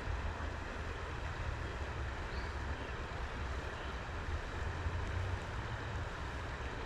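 Steady outdoor background noise: a low wind rumble on the microphone over an even hiss of running creek water.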